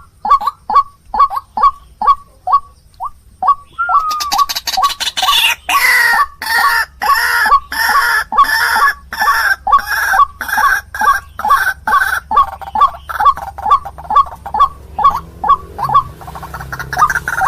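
White-breasted waterhen calling, a fast run of short repeated croaking notes at about three a second. About four seconds in, a second, harsher layer of calls joins, as of more than one bird calling together.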